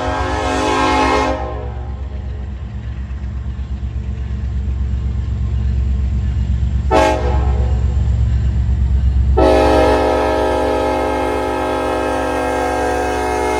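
Union Pacific diesel locomotive's air horn sounding for a grade crossing: a long blast ending about a second in, a short toot about seven seconds in, then another long blast starting near nine and a half seconds. This is the tail of the standard long-long-short-long crossing signal. Under it, the train's low rumble goes on throughout.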